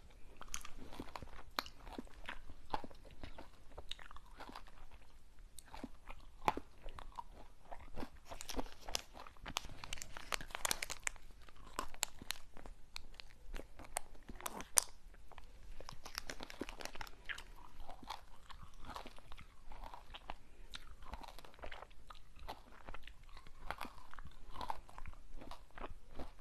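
Close-miked eating of crunchy sweets: irregular crunching and chewing, with a denser, louder stretch of crackly bites near the middle.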